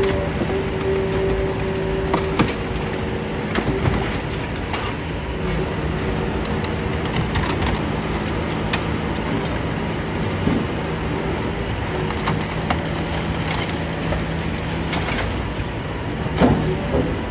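Idromec T 650 CLS scrap metal shear baler running: a steady machine hum with a few held tones, broken by scattered sharp metal knocks and clanks, the strongest about two seconds in and near the end.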